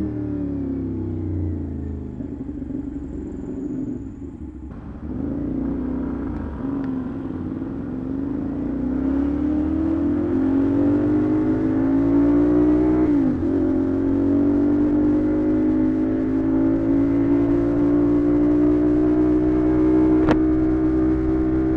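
CFMoto 450SR/SS parallel-twin engine through an SC-Project aftermarket exhaust, under way on the road. The revs fall at first and waver for a few seconds, then climb steadily, drop sharply about midway at a gear change, and climb slowly again.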